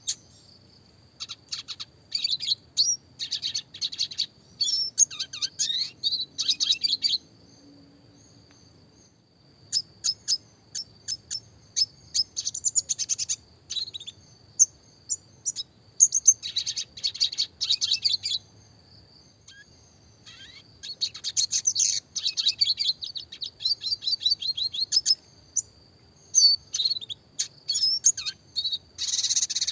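Classic red siskin (Spinus cucullatus) singing: phrases of rapid, high twittering chirps and fast trills, broken by short pauses.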